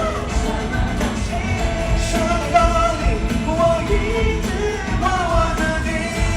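Live concert music: a pop-rock band playing, with a sung melody carried over it.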